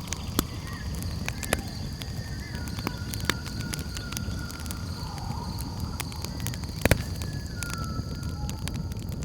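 Campfire crackling with irregular sharp pops, the loudest a quick double pop about seven seconds in, over a low steady rumble. A steady high-pitched drone of night insects and a few faint whistled calls sound behind it.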